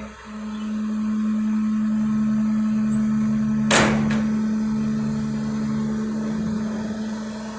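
Garbage truck's engine running with a steady hum, and one sharp, short noise about four seconds in.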